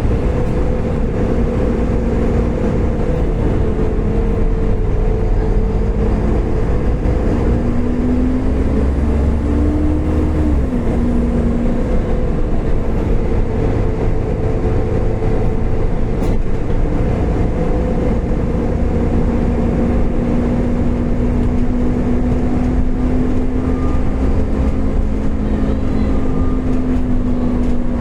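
Volvo B7TL double-decker bus running, a steady engine hum under a sustained vacuum-cleaner-like whine; the whine rises in pitch and drops back once about a third of the way in.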